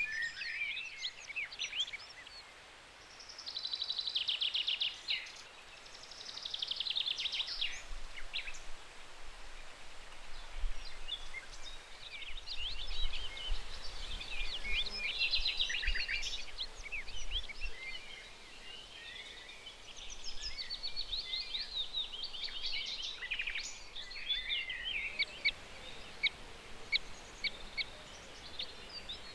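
Several wild birds singing, a mix of short chirps and fast trilled phrases overlapping one another, over a faint steady background hiss. A faint low rumble comes in about a third of the way through and fades out past the middle.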